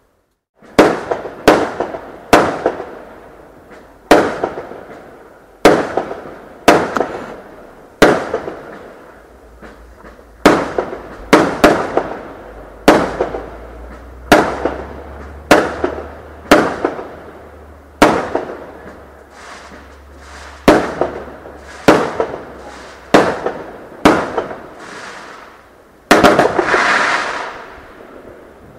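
Fireworks going off in a long series of loud bangs, roughly one a second, each trailing off in an echo. Near the end comes a continuous hissing rush lasting about two seconds.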